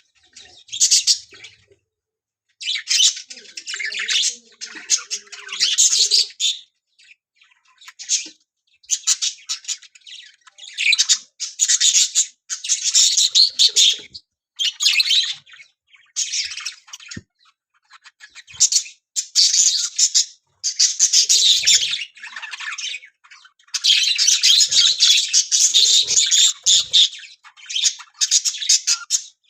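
Parrots calling in a breeding colony: harsh, raspy screeching and chirping in repeated bursts, each a second or a few seconds long, with short pauses between them.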